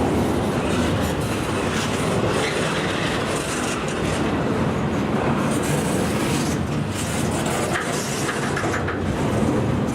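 Freight train cars rolling past, steel wheels clattering steadily on the rails.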